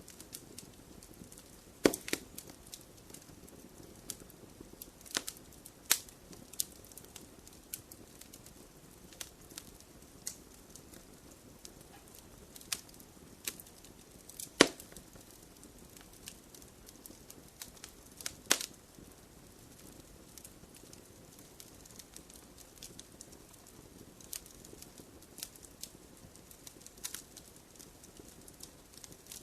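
Wood fire crackling in a fireplace: a soft steady hiss with irregular sharp pops and snaps, a few louder ones standing out around 2, 6, 15 and 18 seconds in.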